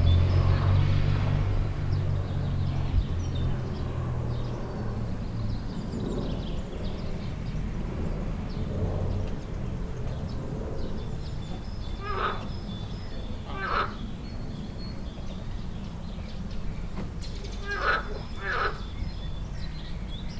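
Four short, harsh animal calls in two pairs, in the second half. Faint high bird chirps run throughout. A low vehicle rumble fades away over the first few seconds.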